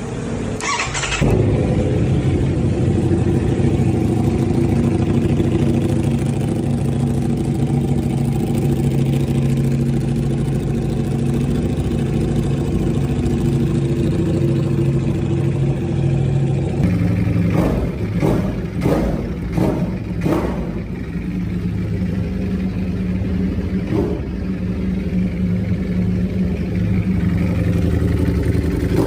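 Ducati Panigale V4 Speciale's V4 engine through an aftermarket FM exhaust, starting about a second in and settling into a steady idle. Past the middle come about five quick throttle blips in a row, then one more a few seconds later, before it idles again.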